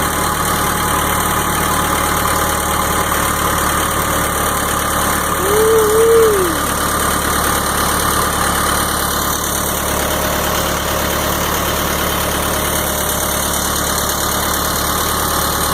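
Farm tractor engine running steadily under load, climbing a steep hill. About six seconds in, a short tone rises and then falls over the engine.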